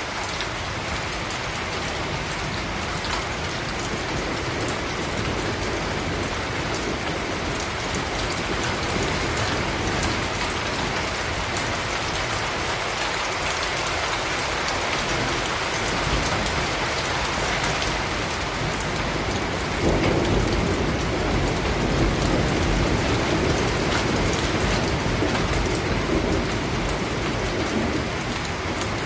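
Steady rain falling on hard surfaces, a dense hiss of drops. A low rumble comes in about two-thirds of the way through and dies away near the end.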